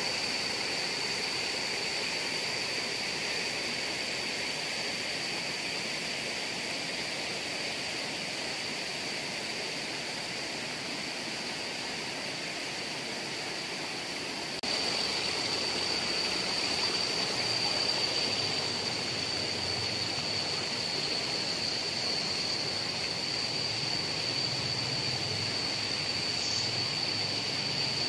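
Waterfall and stream water rushing steadily, with a steady high-pitched whine over it. The sound steps up abruptly in loudness about halfway through.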